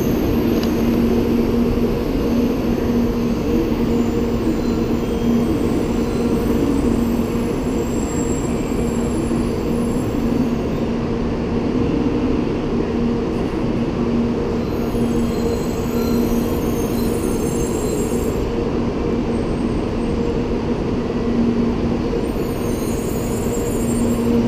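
A Shinkansen bullet train rolling alongside the platform as it slows and comes to a stop. It makes a continuous rumble of running gear with a steady low hum.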